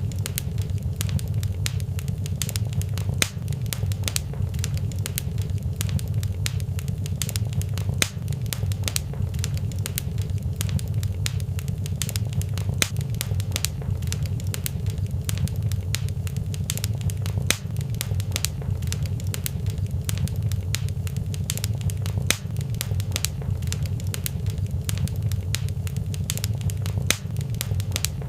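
A fire in a fireplace crackling, with many small sharp pops over a steady low rumble.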